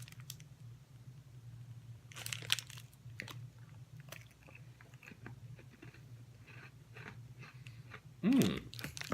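A crisp coconut butter cookie bitten into about two seconds in, then chewed with small crunches, over a steady low hum. A brief falling hum sounds near the end.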